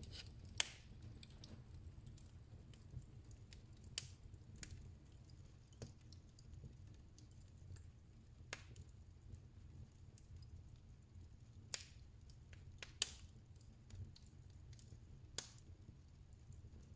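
Faint, sharp clicks at irregular intervals, roughly one every second or two, over a low steady rumble.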